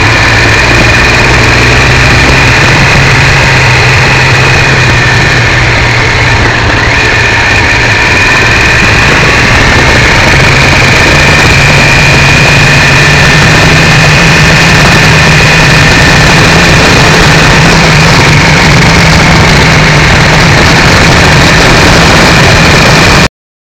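Triumph 955i three-cylinder motorcycle engine running steadily on the move, its note rising slightly about halfway through. It is recorded loud and distorted through a cheap camera microphone, under a heavy rushing noise, and cuts off abruptly near the end.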